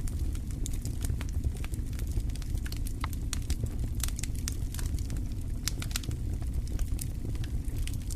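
Wood fire in a fireplace crackling, with frequent sharp pops scattered over a steady low rumble of the flames.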